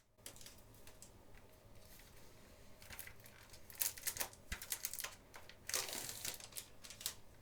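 Plastic shrink-wrap being pulled off a CD case: quiet crinkling with scattered light clicks and taps, busier in the second half.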